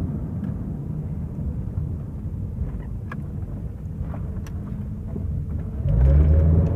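Honda car's engine and road noise heard from inside the cabin while driving, a steady low rumble. About six seconds in the engine gets louder, its pitch starting to climb as the car accelerates.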